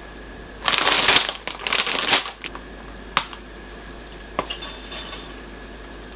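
Dishes and utensils being handled in a kitchen: a loud bout of clattering and scraping for about a second and a half, then one sharp clink and a few lighter knocks.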